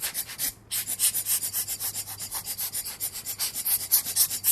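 Rapid short puffs of breath blown into the Pentax K1000's body to dry the isopropyl alcohol under the new light-seal foam: a fast run of hissy bursts, about six to eight a second, with a short pause for breath just after the start.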